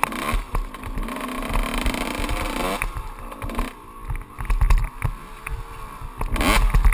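Kawasaki KX125 two-stroke 125 cc engine revving up and down as the bike is ridden off-road, the pitch climbing and falling again several times and easing off about three seconds in. Short low thuds from the bumps run under it, and a loud rushing burst comes near the end.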